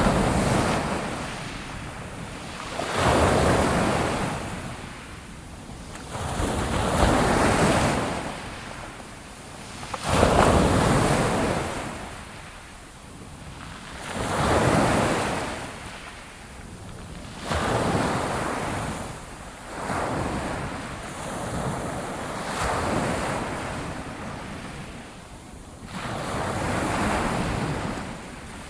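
Sea waves breaking on a shore, each one swelling and washing out in turn, about every three to four seconds.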